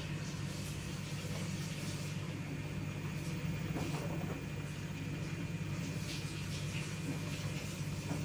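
LG F2T9GW9P direct-drive front-loading washing machine running its spin-only cycle: a steady low hum from the motor and turning drum, with a few light clicks.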